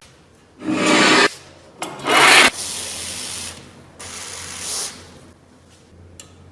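Abrasive rubbing on the knife by hand, in four separate strokes of about half a second to a second each.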